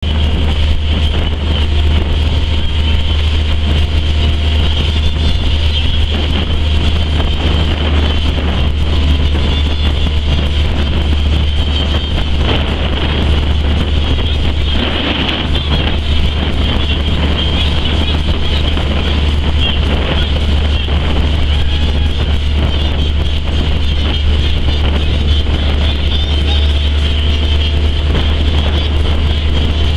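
Steady wind buffeting the microphone, with a motorboat engine running underneath.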